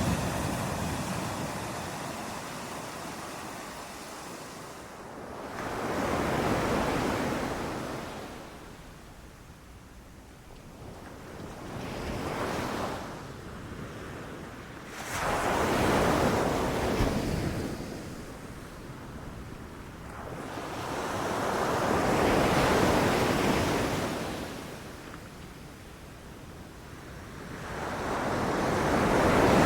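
Ocean surf: waves breaking and washing up the beach, swelling and fading in slow surges about every five to seven seconds.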